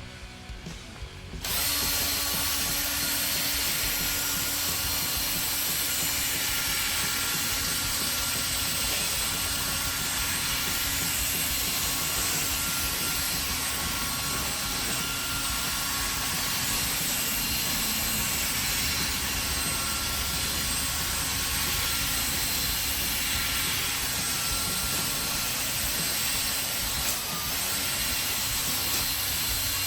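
Electric drill spinning a 3M sanding pad against a plastic headlight lens, starting about a second and a half in and then running steadily as the pad is passed back and forth to cut away the clouded surface.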